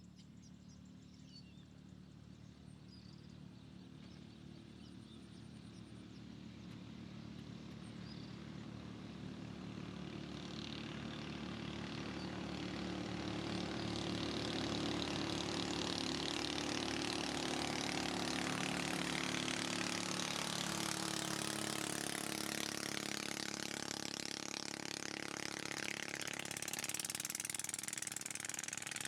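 An engine running, with a steady low hum and a hiss that grow gradually louder over the first half, then hold steady.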